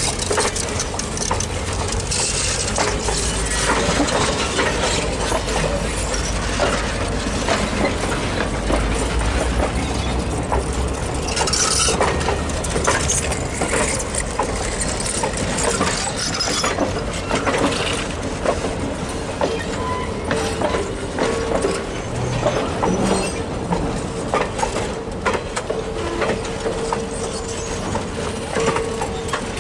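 Passenger cars of a train rolling slowly past, their steel wheels rumbling on the rails with many small clicks and clanks.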